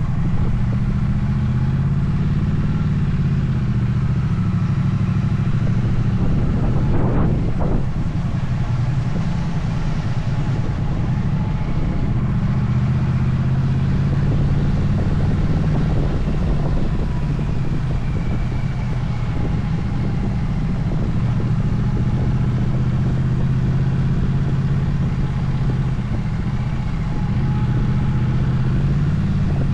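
Motorcycle engine running steadily while riding, its pitch drifting up and down with the throttle.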